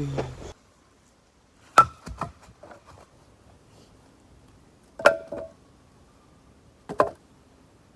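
Axe splitting firewood: three sharp blows, roughly two to three seconds apart, each with a short ring.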